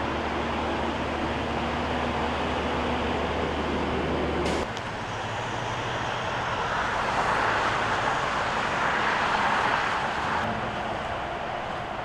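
Freeway traffic noise, with a low steady hum that stops abruptly about four and a half seconds in; a vehicle swells past from about seven to ten seconds in.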